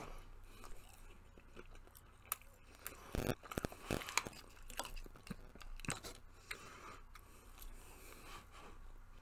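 A person chewing and biting a sauce-dipped fried chicken nugget close to the microphone, wet smacking with sharp crunchy crackles that come thickest and loudest about three to four seconds in.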